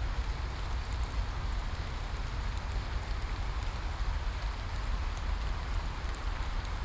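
Steady rain hissing evenly, with a low rumble underneath and faint scattered ticks of single drops.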